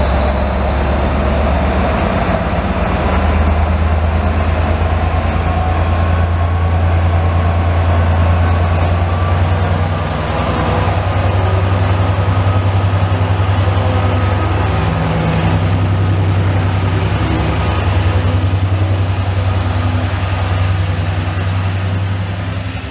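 Israel Railways locomotive-hauled double-deck passenger train running along the platform and past at close range. Its locomotive engine gives a steady low drone over the rumble of the wheels, with a thin high whine rising slowly in pitch.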